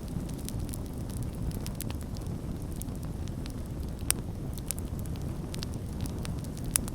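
Campfire burning: a steady low rumble of flames with irregular sharp crackles and pops from the burning wood, the loudest pops a little after four seconds and again near the end.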